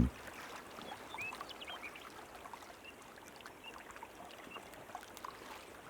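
Faint water lapping and trickling as a beaver swims a branch along a canal, dotted with small drips and plinks.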